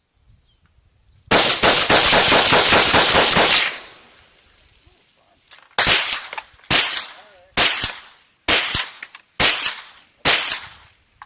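AR-15 rifle with an 18-inch .223 Wylde barrel and a muzzle brake fired at a steel gong: a fast string of shots lasting a couple of seconds, then, after a pause, six slower shots a little under a second apart. A thin ring of the steel lingers after the later shots.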